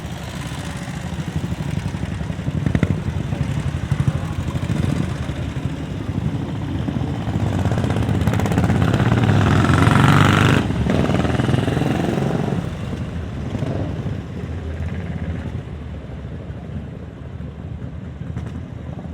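Vintage motorcycle engines running past in a parade. The sound builds to its loudest about halfway through, drops off suddenly, then fades away.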